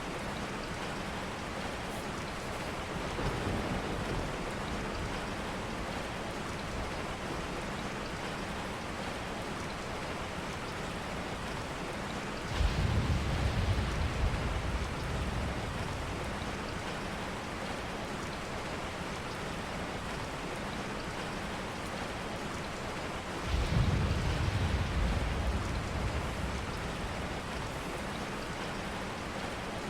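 Steady rain, with two low rolls of thunder. Each starts suddenly, the first about twelve seconds in and the second about eleven seconds later, and dies away over a few seconds.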